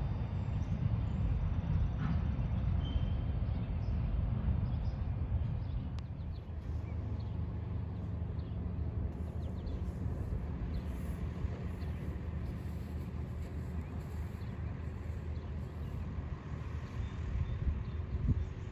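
Steady low rumble of a train rolling past, a little heavier in the first few seconds.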